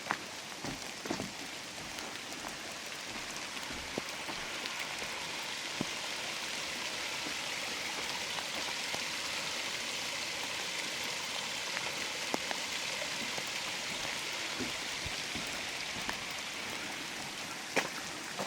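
Steady rain falling through the forest, with scattered sharper ticks of drops landing close by. The rain swells a little through the middle.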